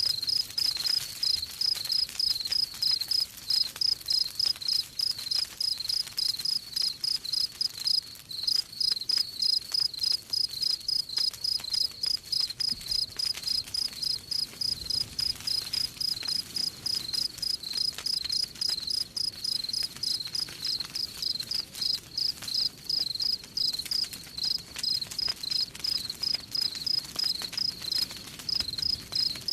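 Crickets chirping in a steady, evenly repeating rhythm of high chirps, several a second, with small crackles and pops of a wood campfire underneath.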